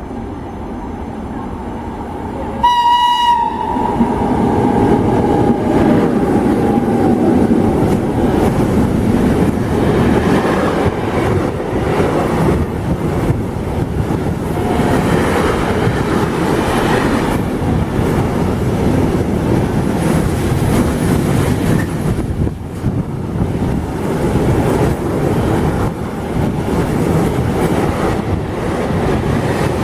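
A train sounds one short horn blast about three seconds in, then passes close by with a loud, continuous rumble and the clatter of its wheels on the rail joints.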